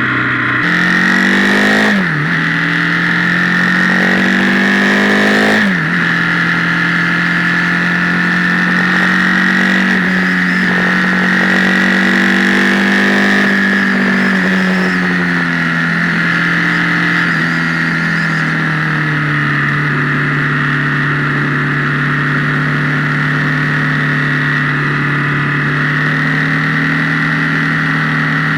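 Motorcycle engine heard from on board, accelerating through the gears with the revs climbing and dropping sharply at two upshifts early on, then easing and settling into a steady cruise. The recording is distorted, as if fed through a guitar amplifier.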